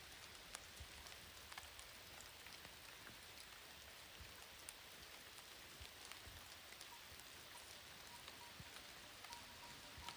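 Faint light rain falling, with scattered raindrops ticking irregularly on leaves and surfaces.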